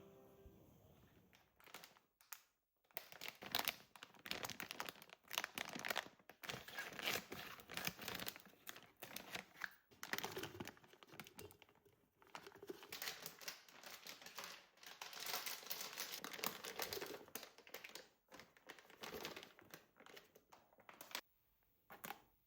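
Close, irregular rustling and crinkling from something being handled, full of small crackles with brief pauses, stopping about a second before the end.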